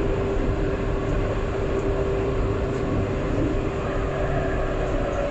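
Alstom Citadis 402 tram running, a steady rumble from the wheels and running gear with a steady hum over it that stops near the end.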